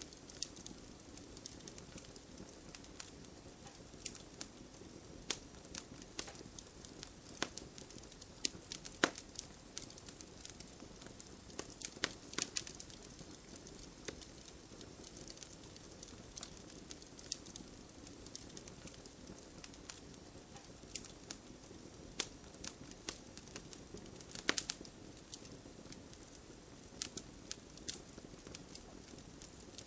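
Wood fire crackling and popping in irregular sharp snaps, a few louder pops among them, over a steady soft hiss of rain.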